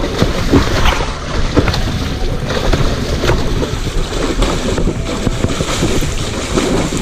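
Wind buffeting the microphone, over irregular splashing as a hooked snakehead thrashes in the water.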